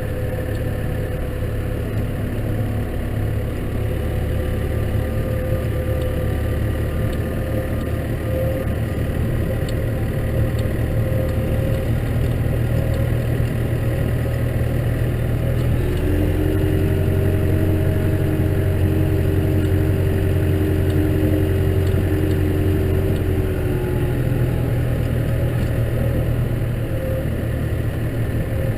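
Case tractor's diesel engine running steadily while ploughing snow. A second, higher whine joins in for several seconds midway, then fades.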